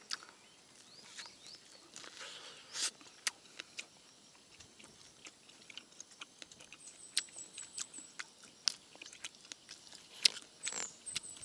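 Children chewing and biting into cooked corn on the cob close to the microphone: faint, irregular mouth clicks and smacks. A quick run of short high-pitched chirps comes about two-thirds of the way through.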